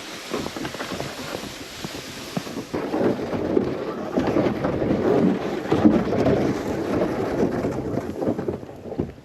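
Wind buffeting the microphone: a rumbling, gusting noise that grows louder about three seconds in.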